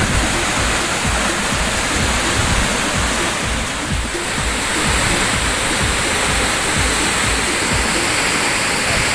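Waterfall pouring: a loud, steady rush of falling water with a heavy low rumble.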